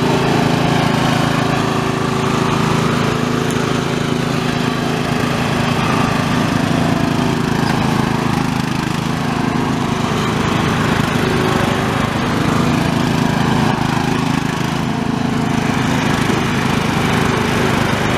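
Riding lawn mower engine running steadily under load, with an even, unbroken engine note.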